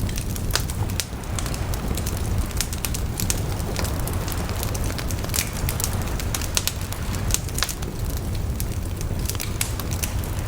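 Bonfire burning: wood crackling and popping at irregular intervals over a steady low rumble of the flames.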